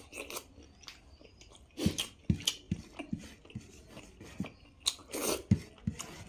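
A person chewing and biting food close to the microphone, with irregular crunches and wet mouth clicks. The food is a rice meal with spicy chicken and potato.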